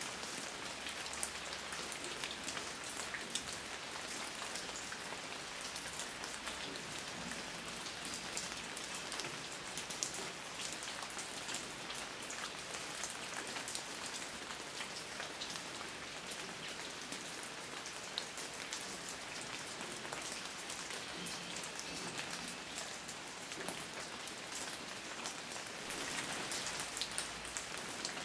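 Steady rain falling on garden plants and fallen leaves: an even hiss of rain dotted with many small drop ticks, a little heavier near the end.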